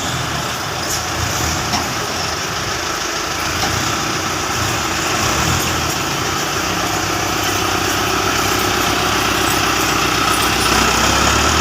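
Tractor engine running steadily, with its low rumble growing a little stronger in the second half.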